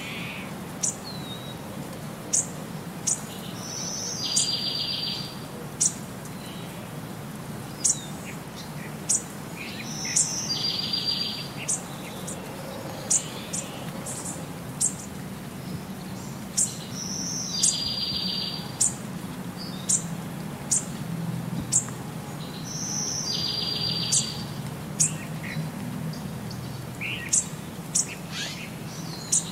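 Birdsong: short, sharp high chirps every second or so, and a buzzy trill led by a short whistle that comes back about every six and a half seconds, over a steady low background rumble.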